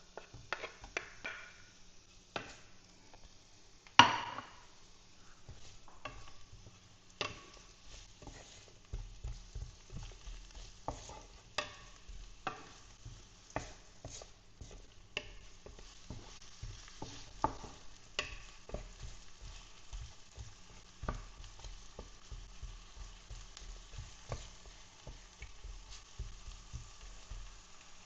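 Onion frying in hot oil in a pan, with a faint sizzle and a utensil knocking and scraping against the pan as it is stirred. A sharp knock about four seconds in is the loudest sound.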